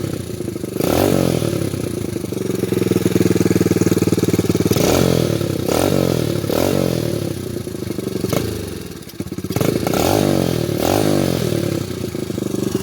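A 2001 Honda XR100R's single-cylinder four-stroke engine running, blipped up and back down several times, with a brief drop in revs about nine seconds in.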